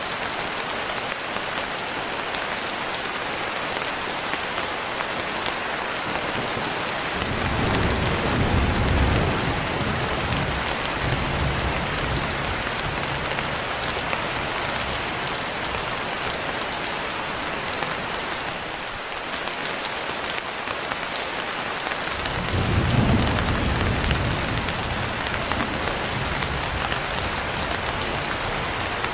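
Steady, heavy rain falling with an even hiss, and two low rolls of thunder: one about a quarter of the way in, the other about three quarters in, each rumbling for several seconds.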